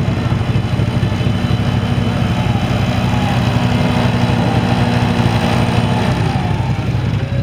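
Peugeot 208 autocross car's engine running at low revs as the car creeps forward, a steady note that drops about six seconds in.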